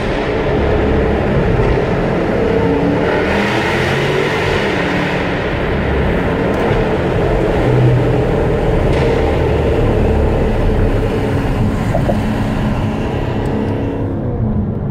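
Supercharged 5.0-litre V8 engine and exhaust of a 2016 Jaguar F-Type R running steadily on the road inside a tunnel, heard from inside the cabin with tyre and road noise. Near the end the sound loses some of its brightness as the car leaves the tunnel.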